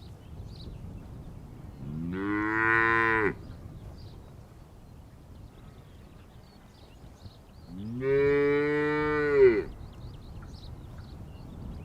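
Cow mooing twice, each a long call that rises at the start and then holds steady, the second a little longer than the first. Faint high chirps sit in the background between the calls.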